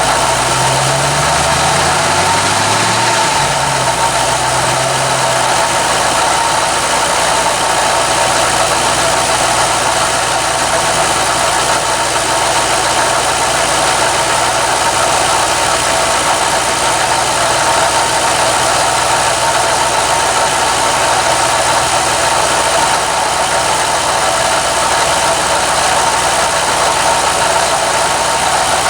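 2006 Ford Mustang GT's 4.6-litre V8 running with the hood open, its speed rising and falling briefly in the first few seconds, then settling to a steady idle.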